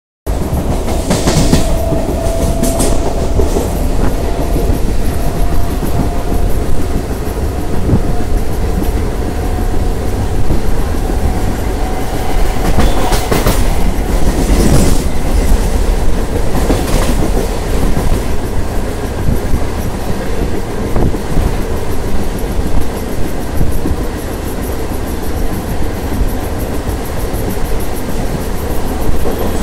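Mumbai suburban electric local train running at speed, heard from its open doorway: a loud steady rumble and clickety-clack of wheels on rails. A few sharper louder clatters come through, and a steady whine sounds through the first half.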